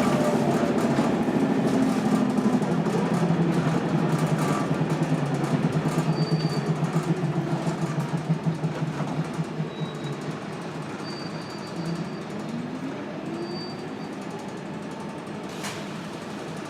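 Scania DC9 9-litre five-cylinder turbo diesel of a Scania K280UB bus with a ZF Ecomat automatic, pulling with a strong pulsing engine note that eases off and goes quieter about nine seconds in. The pitch then rises again a few seconds later, and there is a sharp click near the end. The uploader says the engine sounds very unhealthy.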